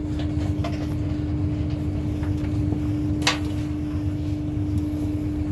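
Steady hum and low rumble inside a Great Western Railway Class 802 train carriage, with a constant tone over it and one sharp click about three seconds in.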